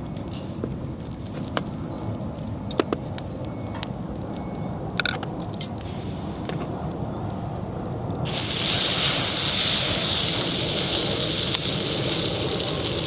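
A wood fire crackles with scattered pops. About eight seconds in, a loud sizzle starts suddenly and keeps going: chicken thigh frying on a hot Otokomae iron griddle plate.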